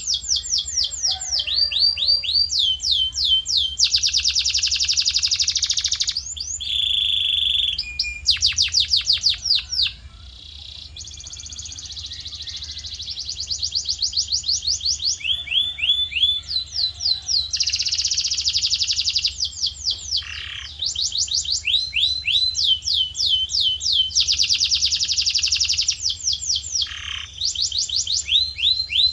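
Male canary in full song: fast trills of the same short sweeping note repeated many times a second, switching to a new trill every second or two. About seven seconds in comes a short steady whistled note, and around ten seconds the song briefly goes softer.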